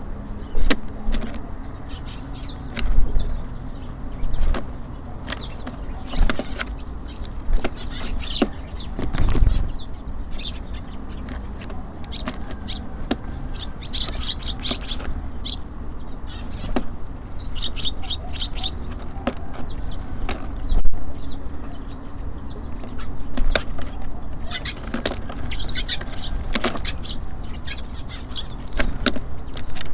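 Small birds such as tits and sparrows busy at a feeder: clusters of short high chirps, wing flutters and scattered sharp taps, the loudest about two-thirds of the way through.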